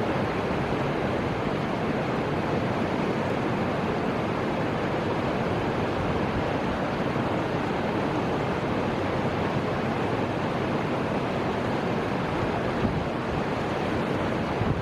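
Fuji River water rushing as a steady, even noise.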